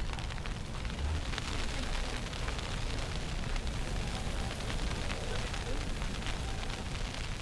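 Street ambience in a snowstorm, dominated by a steady low wind rumble on the microphone with a constant crackle over it.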